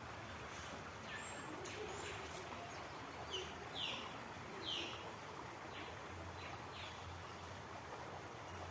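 Three short, high bird chirps in the middle, a few fainter ones around them, over steady outdoor background noise.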